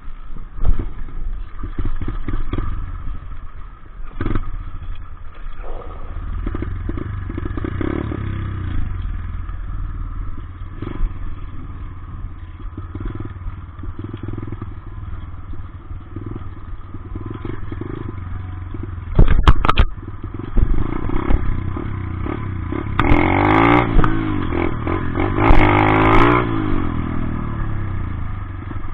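Dirt bike engine running and revving, with a few loud sharp knocks about two-thirds of the way through. Near the end the engine climbs and falls in pitch over several strong revs.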